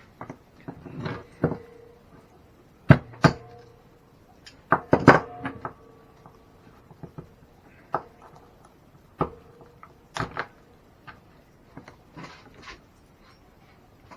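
Hand tools and hard plastic and metal parts of an RC truck clicking and clattering on a workbench while it is being taken apart: scattered sharp knocks, the loudest a few about three and five seconds in.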